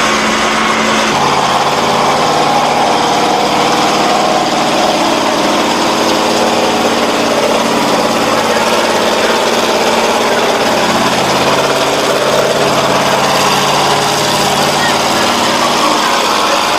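Monster truck engines running steadily, with a change in engine pitch about a second in.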